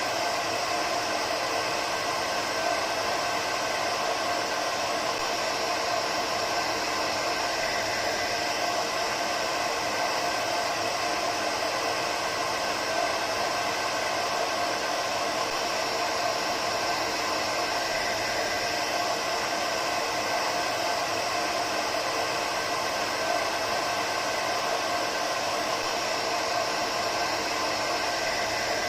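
Hair dryer running steadily: an even rushing noise of air with a faint motor whine held at a constant pitch.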